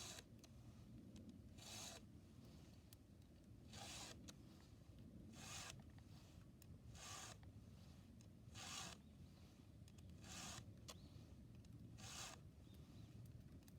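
A file being drawn across the cutters of a chainsaw chain to sharpen it: short, faint, hissy rasping strokes at an even pace, about one every 1.7 seconds, eight in all.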